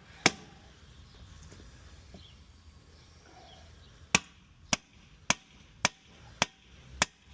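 Sharp hammer blows on a tractor wheel, working a tyre bead that is stuck to its rim: one strike just after the start, then a run of six evenly spaced strikes a little over half a second apart.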